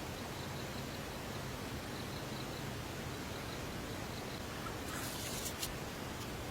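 Steady outdoor background hiss with faint, rapid high chirps during the first few seconds, and a brief rustle with a few clicks about five seconds in.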